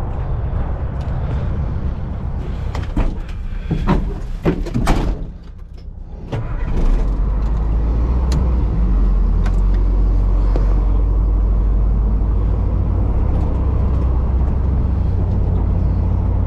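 Big truck's engine running, with a few sharp knocks and clatter about three to five seconds in; after a short dip the engine comes back louder and runs steadily.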